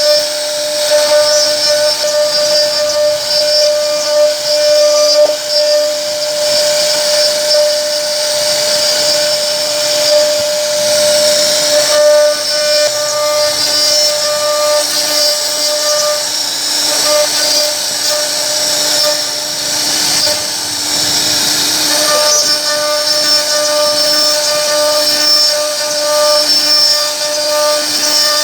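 CNC router spindle running with a steady whine while cutting wood, over a constant high hiss. The whine weakens for a few seconds partway through, then returns.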